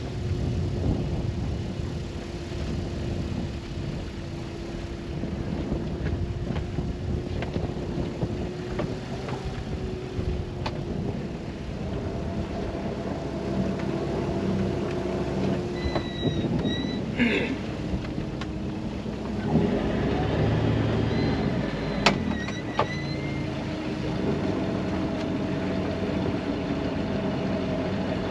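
A sailboat's engine running steadily while the anchor is being raised, with a few sharp knocks and short high squeaks over it.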